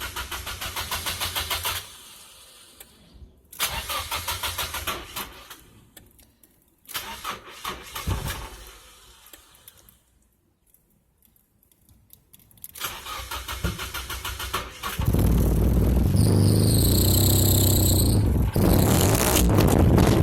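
Starter cranking the straight-piped KA24DE four-cylinder of a 1995 Nissan 240SX S14 in several tries of about two seconds each, with one brief sputter. Near the end it catches and runs loudly for about five seconds, with a brief high whine over it, then cuts off. It is struggling to start and, by the owner's ear, misfiring.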